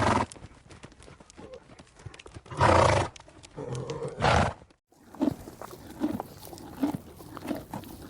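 Llama sounds: a short noisy burst at the start, then two longer breathy, noisy calls around three and four seconds in. After a sudden cut, soft, evenly spaced hoof steps, a little more than one a second.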